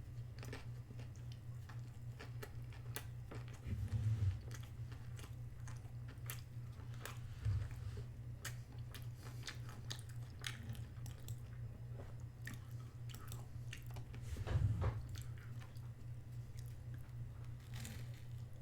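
A person biting and chewing food from a chicken burger and fries meal, with many small irregular mouth clicks and a few louder low thumps, about 4, 7.5 and 14.5 seconds in. A steady low hum runs underneath.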